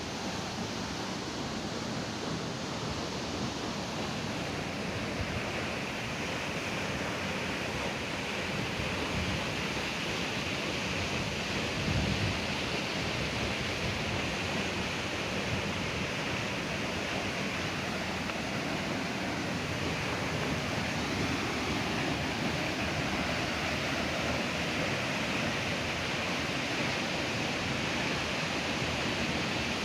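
Steady rush of a mountain waterfall, an even noise of falling water that grows slightly louder and brighter about five seconds in, with a brief low thump about twelve seconds in.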